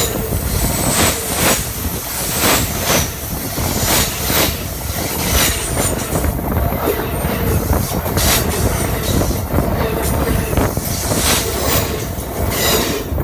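Amtrak passenger train rolling directly overhead, heard from between the rails: a loud, dense rumble of wheels and undercarriage with frequent sharp clacks as the wheels pass.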